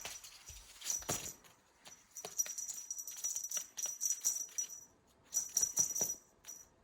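A small jingle bell shaken in irregular bursts, with a few light knocks, in three spells of jingling.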